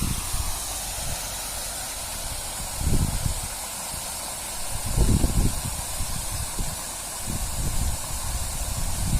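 Wind buffeting the microphone in gusts, low rumbles about three seconds in, around five seconds and again near the end, over a steady high hiss.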